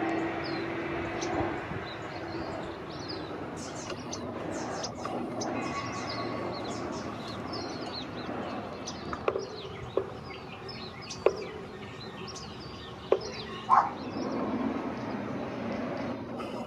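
Small birds chirping repeatedly over a steady background hum, with five sharp knocks in the second half.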